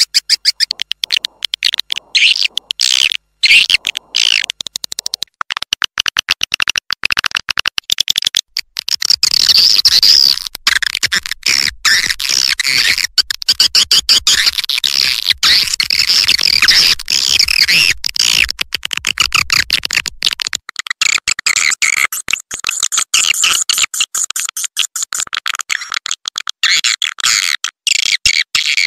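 Edible-nest swiftlet calls from a lure recording: a dense chatter of rapid, high chirps and twitters, layered and repeating. This is the kind of call track played in swiftlet houses to attract the birds to roost.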